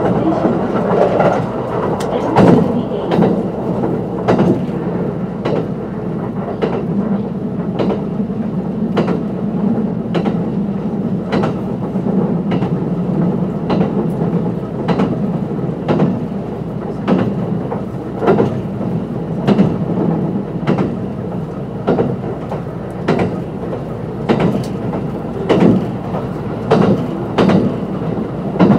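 Kintetsu 22600 series limited express train running at speed, heard from inside the car: a steady rumble with wheels clicking over rail joints about once a second.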